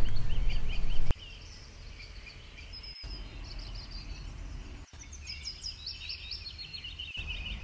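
Small birds chirping repeatedly over a faint background hiss, with three brief dropouts about three, five and seven seconds in. A louder, dense noise fills the first second.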